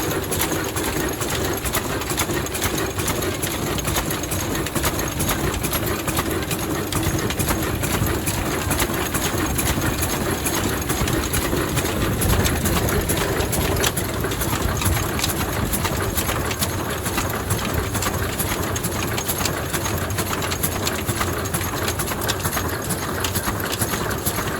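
Vintage 35 HP Ruston stationary diesel engine running steadily, a fast, even mechanical clatter with no change in speed.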